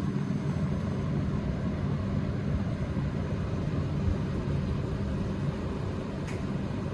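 Electric table fan running: a steady rush of moving air, heaviest in a low rumble.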